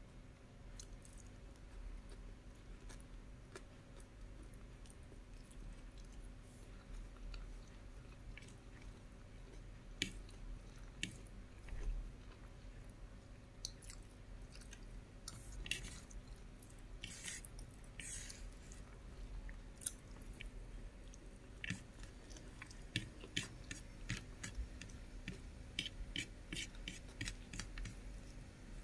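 Close-miked chewing of a meal of bacon, scrambled egg and rice: faint, sparse wet mouth clicks and smacks, coming thicker about halfway through and again near the end, over a faint steady hum.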